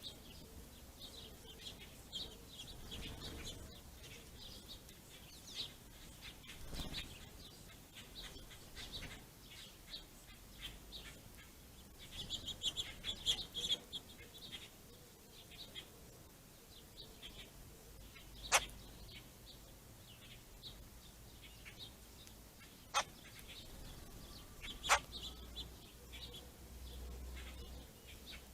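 Small songbirds at a ground feeding spot chirping and twittering in short, scattered calls, with a busier flurry of chirps about halfway through. A few sharp clicks stand out near the end over a faint low rumble.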